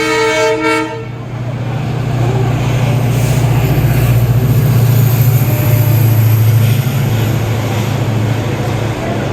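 EMU local train heard from on board: a short train horn toot that cuts off just under a second in, then the steady low rumble of the running train, which grows louder a couple of seconds in and eases slightly near the end.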